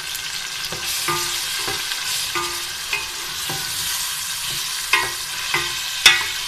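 Diced potatoes and onions sizzling in hot oil in an aluminium pot, stirred with a wooden spoon that knocks and scrapes against the pot with short ringing clinks. The sharpest knock comes about six seconds in.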